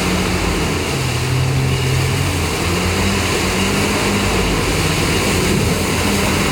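Off-road 4x4 vehicle engine running loud, its revs dropping about a second in and climbing back about three seconds in.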